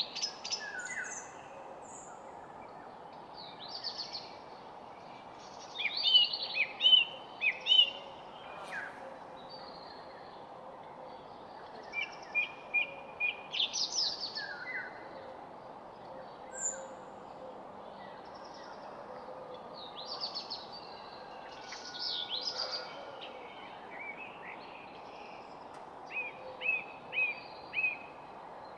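Wild songbirds singing and calling in short chirpy phrases that come in clusters every few seconds, the loudest about six to eight seconds in, over a steady outdoor background hiss.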